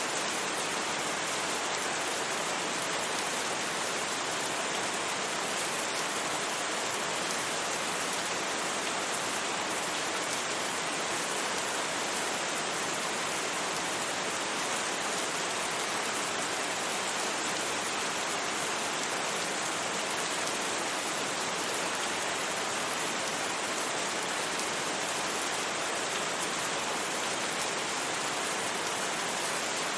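Steady rain falling: an even, unchanging hiss with no thunder.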